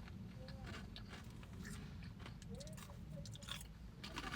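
Crunching and chewing a thin, crunchy potato crisp: a run of faint, irregular crackles.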